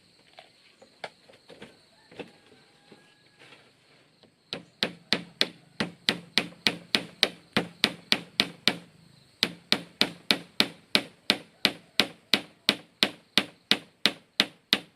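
A hand tool striking wood over and over in a fast, even rhythm of about four blows a second. The strikes begin about four and a half seconds in after a few scattered soft knocks, and pause briefly midway.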